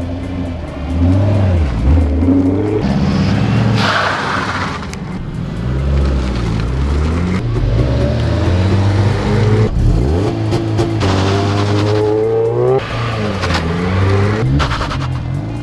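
Car engine revving hard, its pitch climbing and dropping over and over through gear changes, with short spells of tyre squeal.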